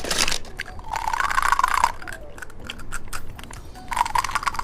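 Close-miked crinkling and clicking of plastic candy packaging being handled and opened: a short burst, a denser crackling stretch about a second in, and another burst near the end.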